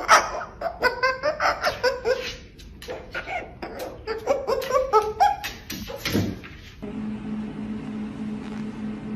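Laughter in a long string of short, pitched 'ha' pulses, stopping abruptly about seven seconds in, after which a steady low hum sets in.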